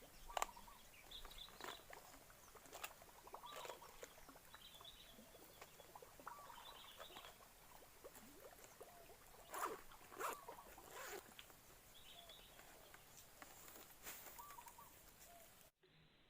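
Faint outdoor ambience with scattered short bird chirps and small clicks, cutting off abruptly near the end.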